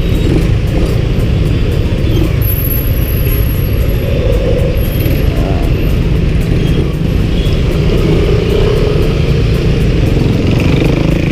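Motorcycle ride heard from the rider's microphone: a steady, loud rumble of wind and engine.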